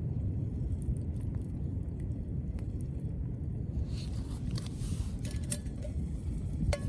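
Wood fire burning, with a steady low rumble and a few faint crackles. A hiss joins about four seconds in, and metal cookware clinks just before the end.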